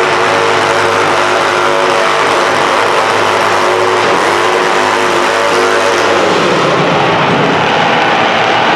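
Modified pulling garden tractor's engine running loud at high revs. About six seconds in, the engine note drops and then climbs back up.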